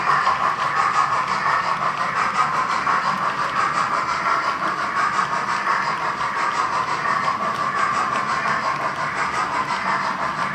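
H0-scale Roco BR 01 model steam locomotive running with its train: a steady hissing rush from its digital steam sound and its wheels on the track.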